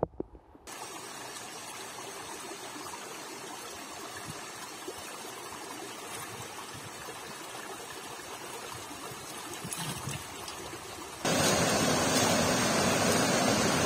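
A stream flowing steadily, with an even rushing noise. About eleven seconds in it becomes abruptly much louder.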